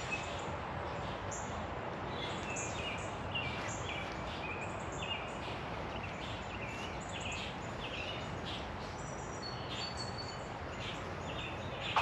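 Woodland birds chirping and calling in many short notes over a steady rushing background noise.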